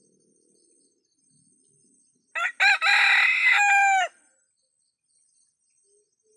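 An ayam kampung (Indonesian village chicken) rooster crowing once, about two seconds in. The crow starts with a couple of short notes, then holds a long note that drops in pitch at the end.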